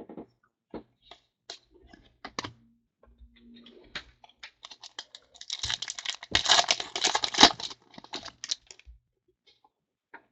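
Trading cards and their packaging being handled: scattered light clicks and flicks, with a louder burst of dense rustling and clicking lasting about two seconds in the middle.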